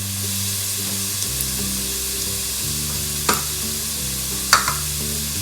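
Chopped onion, green chilli and garlic sizzling in hot oil in a wide pan while being stirred, with a few sharp clicks of the spatula against the pan about three and four and a half seconds in. Soft background music with held low notes runs underneath.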